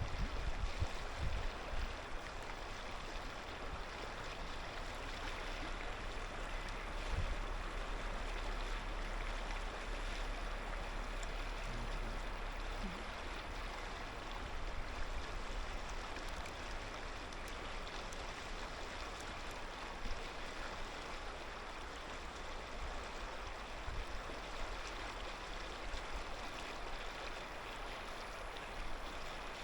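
Clear mountain river flowing over stones, a steady babbling rush of water.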